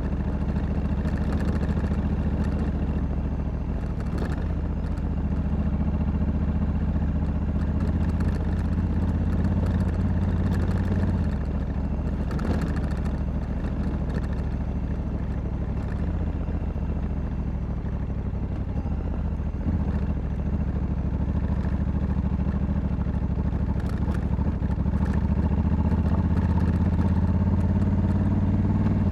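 Honda Africa Twin 1100 DCT's parallel-twin engine running under way. The engine note steps down a couple of times and rises again near the end.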